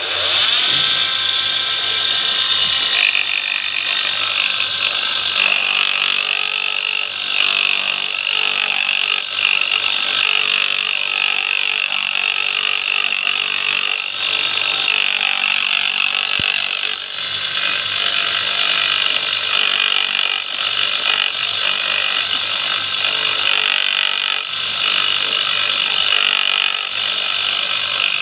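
Homemade lathe spinning up, then running steadily while a tool works a camshaft, with a high-pitched scraping hiss over the motor's whine.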